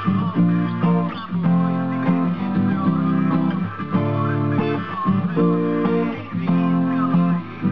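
Acoustic guitar playing the song's chords, strummed, with the chord changing every second or so.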